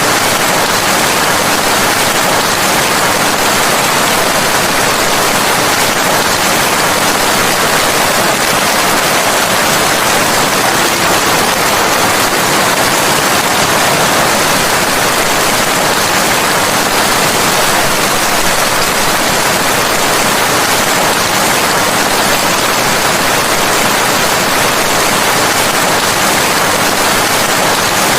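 Steady, heavy rain: a dense, even hiss with no single drops, thunder or other events standing out.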